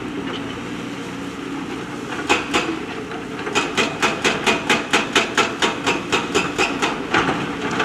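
JCB backhoe loader's diesel engine running steadily while its machinery strikes hard material: two sharp knocks, then a fast, even run of knocks at about five a second lasting around three seconds, and a couple more near the end.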